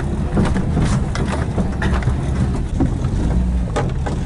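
Vehicle engine running steadily under load, heard from inside the cab while driving a rough grass track, with frequent short knocks and rattles from the bumpy ground.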